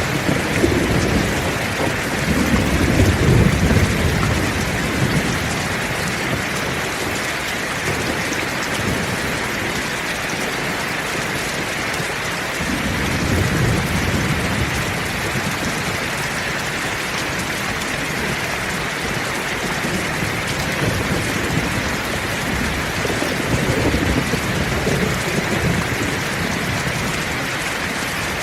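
Heavy rain falling steadily, with low rolling thunder rumbling in the background three times: near the start, about halfway, and again toward the end.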